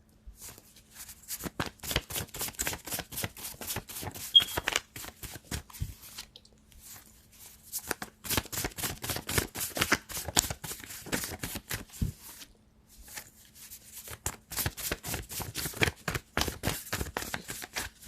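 A deck of tarot cards being shuffled by hand in three bouts of rapid card-on-card clicking and flicking, with short pauses between them.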